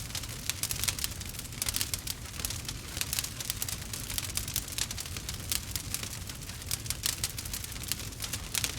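Campfire crackling: dense, irregular pops and snaps over a low steady rumble.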